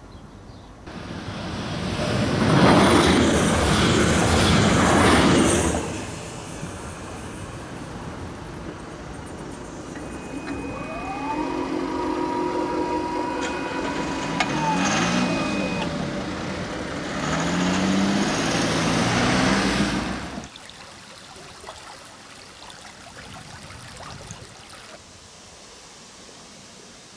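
A train passes over the level crossing, swelling to a loud rush and fading within a few seconds. Later, road vehicles drive over the crossing, one with an engine note that rises, holds and falls and others stepping up as they accelerate. After that comes a quieter outdoor background with some birds.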